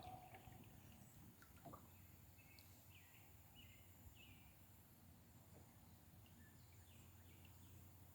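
Near silence: quiet outdoor ambience with a few faint bird chirps, a short cluster about three seconds in and a few more near the end.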